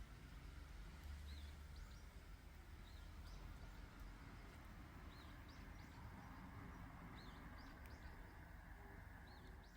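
Faint outdoor ambience: small birds chirping in short curling calls about once a second, over a steady low rumble.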